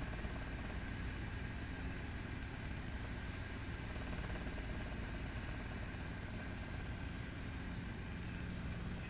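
Helicopter engine and rotor running steadily, heard from inside the cabin as an even, unchanging drone with most of its weight low down.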